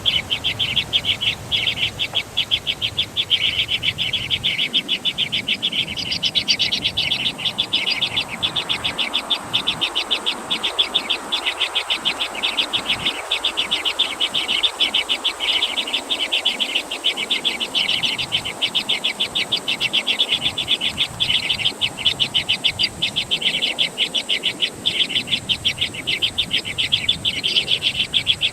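Birds chirping in a rapid, unbroken series of short high chirps, several a second, with a thin steady high tone behind them.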